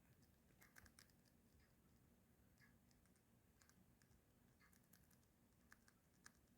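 Near silence, with faint irregular clicks and ticks scattered through it.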